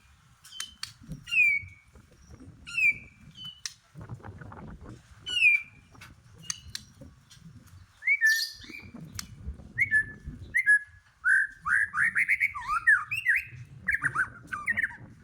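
White-rumped shama singing: a few loud, separate down-slurred whistles in the first half, then a fast, varied warbling run from about eight seconds on, with sharp clicks between the notes. A low rumble sits underneath.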